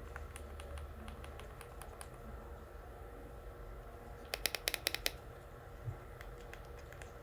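Buttons of a Freedconn R3 helmet intercom clicking as they are pressed: a few faint clicks at first, then a quick run of about eight sharp clicks a little past four seconds in. The unit gives no response: it will not power on after getting wet in rain.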